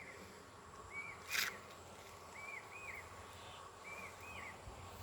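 Faint outdoor bird calls: short hooked whistled notes, mostly in pairs, repeating about every second and a half, with one brief sharp louder sound about a second and a half in over a faint steady hum.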